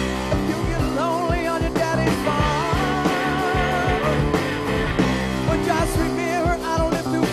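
Hard-rock band recording: drums and bass keep a steady beat under electric guitar, with a wavering lead line that bends and shakes in pitch.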